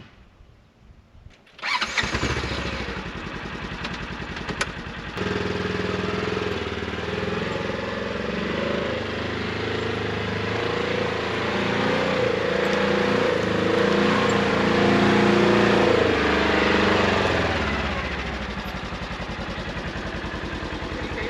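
Polaris Ranger XP 1000 Northstar UTV engine running under way. The engine sound cuts in abruptly about two seconds in, its note steps up about five seconds in and holds steady, and it eases off a few seconds before the end.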